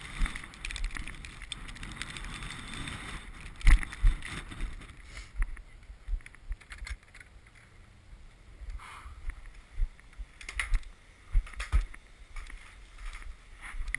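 Wind buffeting the microphone over irregular thumps and crunches of boots wading through deep snow drifts. After about four seconds the wind noise drops away, leaving scattered knocks and rustles; the loudest thumps come near four seconds in.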